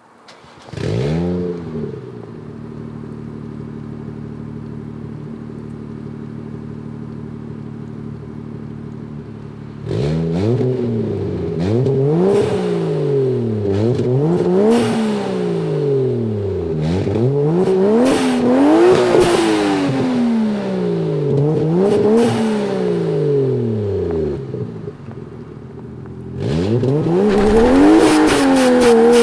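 Toyota 1JZ 2.5-litre straight-six starting about a second in, flaring and settling into a steady idle. It is then blipped about five times, each rev rising and falling back, drops toward idle, and near the end pulls into a long, loud rising rev.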